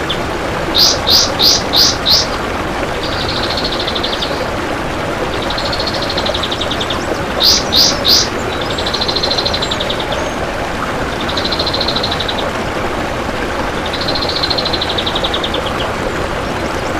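Kapas tembak bulbul singing: a run of five loud, clear sweeping notes about a second in and three more near the middle, between rapid trilled phrases repeated every couple of seconds, over a steady rushing background noise.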